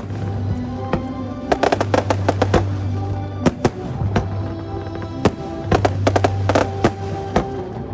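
Fireworks exploding in quick volleys of sharp bangs and crackles, densest about a second and a half in and again around six seconds, over steady background music.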